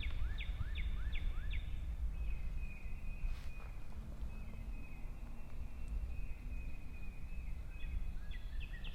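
A songbird singing: a quick series of sharp, falling high notes at about four a second, then a thin, wavering high whistle, then the quick notes again near the end. A steady low rumble of wind and a single faint click about three and a half seconds in are also heard.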